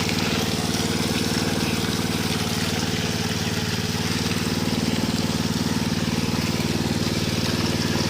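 A small engine running steadily at a constant speed, with a hiss over its even drone.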